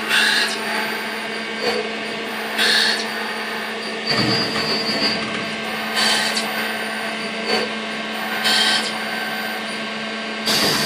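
Mazak Impulse CNC milling machine running, with a steady hum, while it mills a 385 brass plate. Short noisy bursts break in over the hum every second or two.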